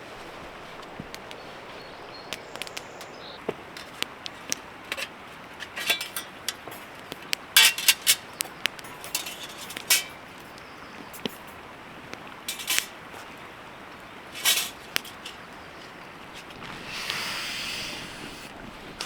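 Camp gear being handled and packed: scattered light clicks and knocks, several louder short rustles, and a steadier rustling sound of about a second and a half near the end.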